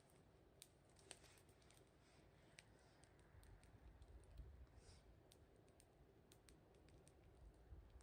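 Faint wood fire crackling, with scattered sharp pops at irregular intervals.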